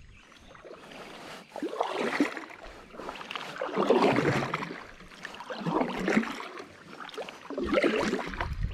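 Kayak paddle blades dipping into and pulling through river water, a splashing swish swelling about every two seconds with each stroke.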